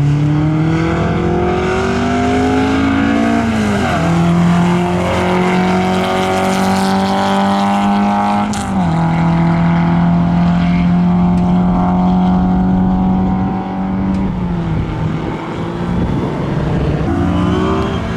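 Car engine accelerating on a race track: its pitch climbs and drops sharply at two upshifts, about four and eight and a half seconds in. Around fourteen seconds it falls away as the car slows, then picks up again near the end.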